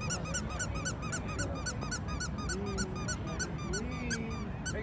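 Squeaky toy squeezed over and over in a fast, even rhythm, about five short squeaks a second, each rising and falling in pitch.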